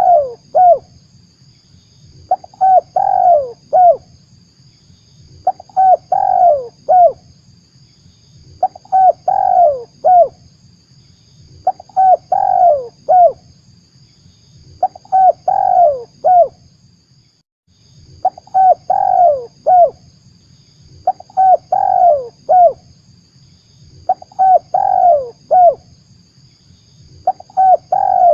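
Spotted dove (tekukur) cooing, a lure call: the same short phrase of several coos repeats about every three seconds, about ten times, over a faint low hum.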